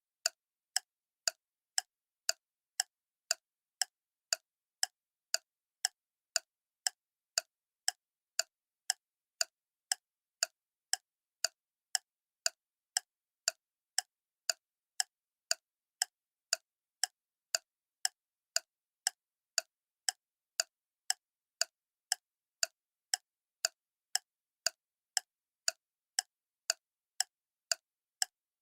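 Clock ticking steadily, about two crisp ticks a second, with silence between the ticks.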